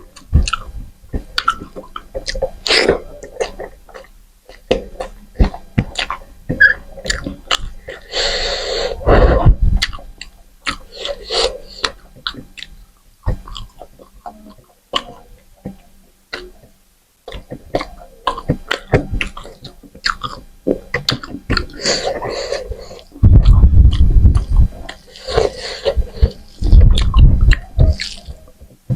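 A person chewing food close to the microphone, with many short wet mouth clicks throughout. In the last few seconds there are loud low thumps and rumbles.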